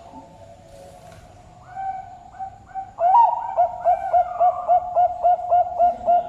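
Zebra dove (perkutut) singing: soft cooing at first, then about three seconds in a loud, rapid run of short rhythmic coo notes, about three to four a second.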